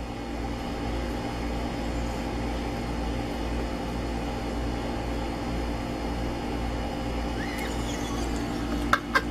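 Steady mechanical hum with a low rumble and several held tones, and a few sharp clicks near the end.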